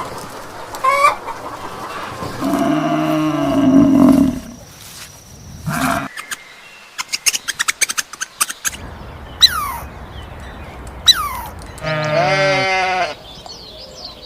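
Goat bleating: two long wavering bleats, one about two and a half seconds in and one near the end, with a few clicks and short falling chirps between them.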